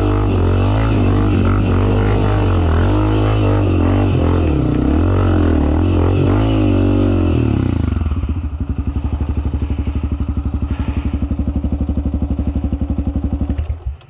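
Dirt bike engine running with its pitch rising and falling, then from about eight seconds in settling into a steady, fast, even thumping at low revs.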